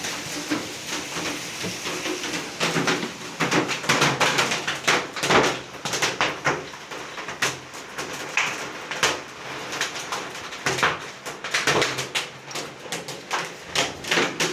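Hailstones clattering down in a heavy hailstorm, a dense irregular barrage of sharp impacts over the hiss of rain.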